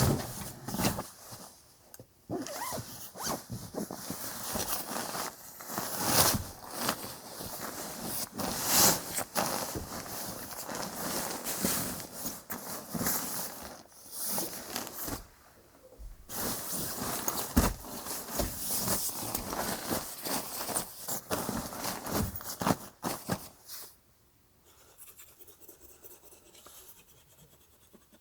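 Close, repeated scraping and rustling handling noise in quick irregular bursts with short pauses. It stops abruptly near the end, leaving only a faint background.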